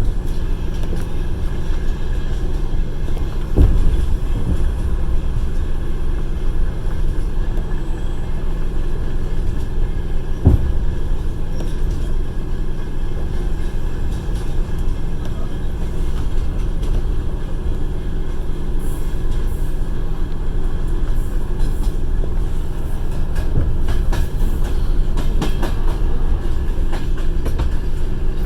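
Passenger train carriage running along the line: a steady rumble of wheels on the rails, with two single louder knocks of the wheels a few seconds in and about ten seconds in, and light rattling clicks in the second half.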